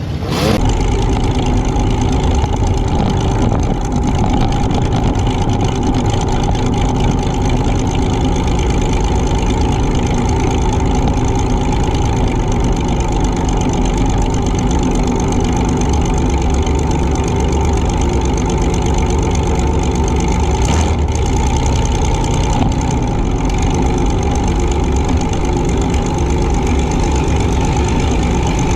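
Compact demolition-derby car's engine running steadily at a loud, even level, with a sharp knock just after the start.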